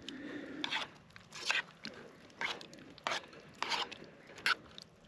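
Footsteps crunching in cold, dry snow, about six steps at a slow walking pace.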